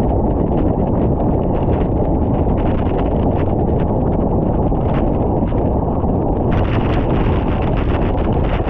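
Wind buffeting the microphone of a camera on a moving bicycle, a steady loud rumble, with quick irregular ticks over it that get brighter about six and a half seconds in.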